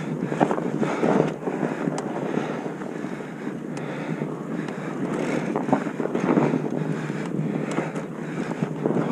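Wind buffeting the microphone of a camera riding along on a bicycle moving down a trail, a gusty rushing noise that swells and fades, with a few sharp ticks.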